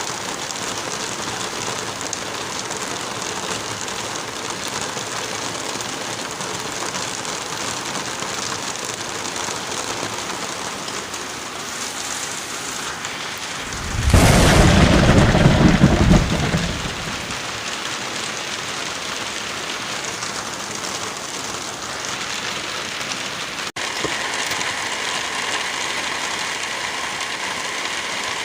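Steady heavy rain, with one loud clap of thunder about halfway through that lasts a couple of seconds and then dies away. Near the end the rain briefly drops out and comes back with a slightly different texture.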